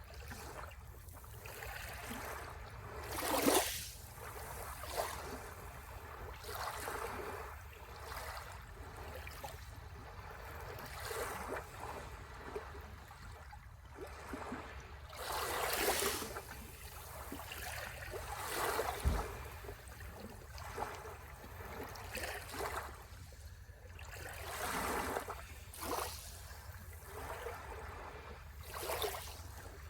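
Sea waves washing onto the shore in irregular swells, with the biggest surges about three seconds in and near the middle.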